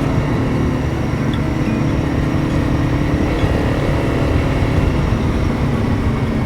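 Honda CRF300 Rally's single-cylinder engine running steadily under way, with a low drone and a rush of road noise.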